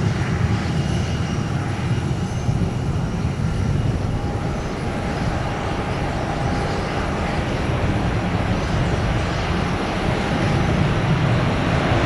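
Jet airliner engines running with a steady rumble and a faint whine, growing louder near the end.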